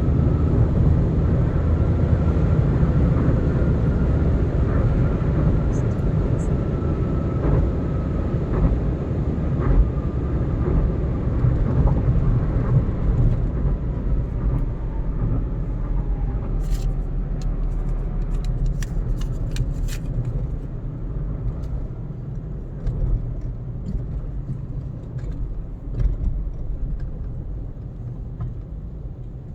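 Car driving at speed on an expressway: a steady low rumble of tyres and engine that grows gradually quieter through the second half, with a few faint sharp clicks partway through.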